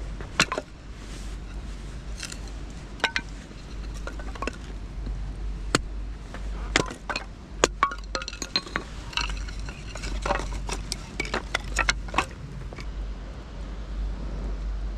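Firewood being split: a series of sharp knocks and clacks of wood, coming thick and fast through the middle, over a low steady rumble.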